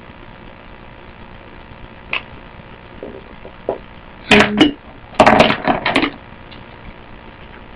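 Handling noise close to the microphone: a few light knocks, then two loud clusters of clattering knocks about four and five seconds in, over a steady background hum.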